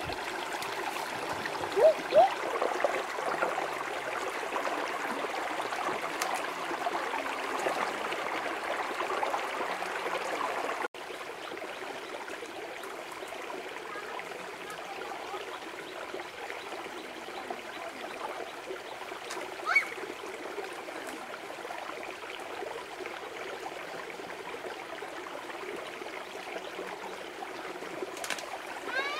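River water flowing steadily. It drops abruptly to a quieter flow about eleven seconds in.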